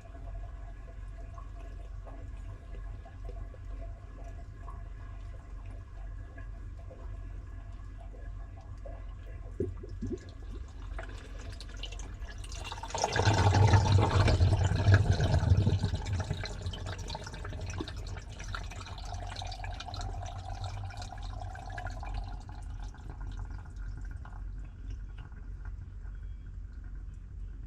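Water rushing through a washing machine mid-cycle, building up about ten seconds in, loudest for a few seconds and then tapering off, over the machine's steady low hum.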